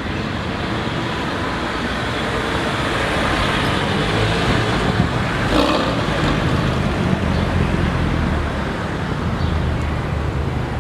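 Road traffic passing close by: a steady rush of tyre and engine noise with a low rumble, swelling slightly midway as vehicles go past.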